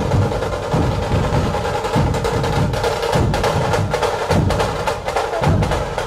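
Procession drumming: a deep drum beat lands about every second over a fast, steady rattle of sharp higher drum strokes, in the style of dhol-tasha drumming.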